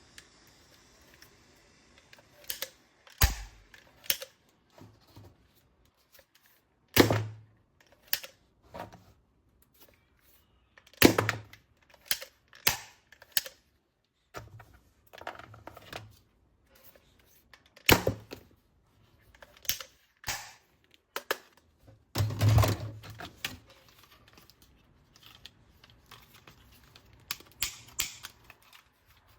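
Plastic toy weapons and parts being handled: irregular sharp clicks and knocks, a dozen or more, some with a dull thud as pieces are set down or snapped together.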